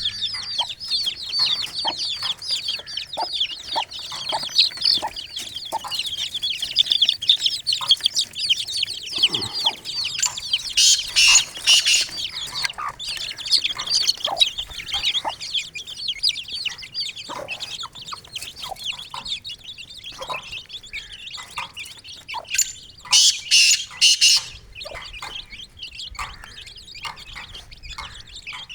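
A brood of chicks peeping continuously in a dense high chorus, with a mother hen clucking in short, repeated lower calls. Twice, a brief louder rustling noise rises over them.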